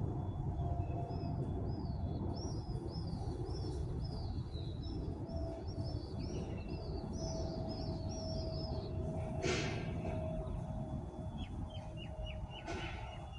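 A small songbird giving a quick series of high, down-curving chirps, about two a second, which stops about nine seconds in. Under it runs a steady low rumble.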